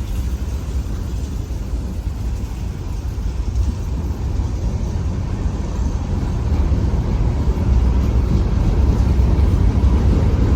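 Freight train rolling past: a steady low rumble of cars on the rails that grows a little louder in the second half.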